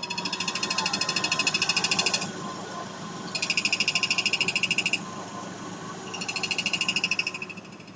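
Clutch release (throw-out) bearing of a Great Wall Hover H3 whistling with a rapid chirping warble, three times, each lasting about one and a half to two seconds, over the steady low hum of the running engine.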